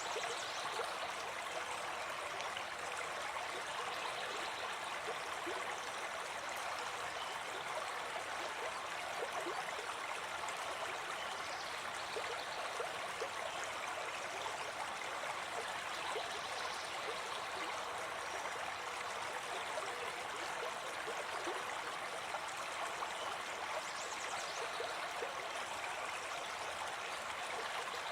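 Gentle forest brook flowing steadily, an even rush of running water.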